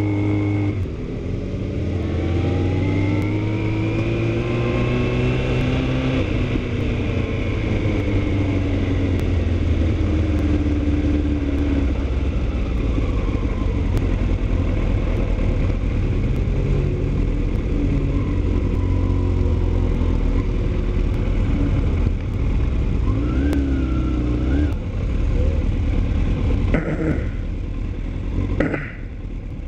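Motorcycle engine running under way, its note rising and falling as it accelerates and shifts, over steady wind and road noise. Two short sharp noises come near the end.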